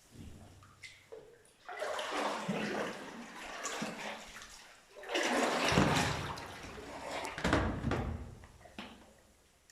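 Sea water surging and sloshing in a sea cave, in several rushes, the later ones with deep booms.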